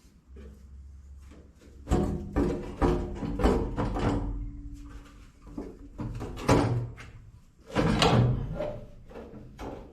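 Repeated metal knocks and bangs with a short ringing tone, coming in bursts, as a tractor's steering wheel is worked loose from its steering shaft.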